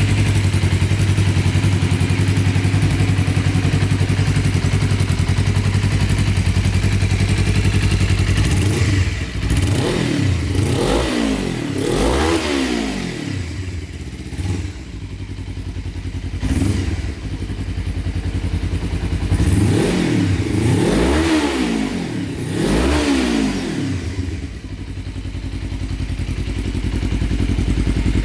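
Suzuki GW250 Inazuma's 250 cc parallel-twin engine idling steadily, then blipped up and down in two pairs of revs, then settling back to idle.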